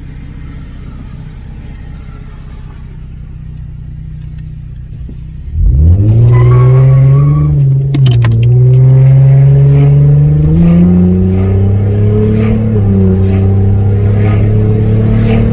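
Car engine idling quietly, then about five and a half seconds in it is floored. The engine note jumps in loudness and climbs in pitch, with brief drops at gear changes about eight seconds in and again near the end, heard from inside the car.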